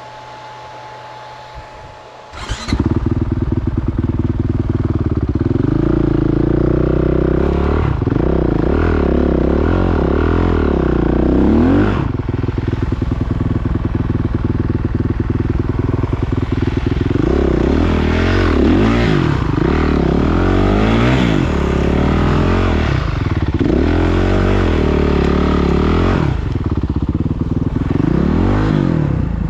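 Motocross motorcycle engine, loud and close, cutting in suddenly a few seconds in and then revving up and down over and over as the bike is ridden, with short drops in pitch as the throttle is eased.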